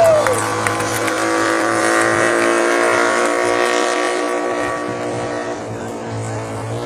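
MotoGP racing motorcycles running at high revs around the circuit, a steady high engine note made of several layered tones that slowly fades over the last few seconds.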